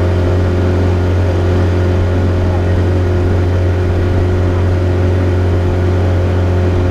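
An engine running at a steady speed, an even, unchanging drone with a strong low hum.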